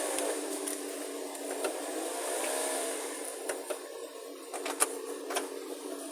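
A steady mechanical hum that swells in pitch now and then, with a few sharp clicks and knocks in the second half.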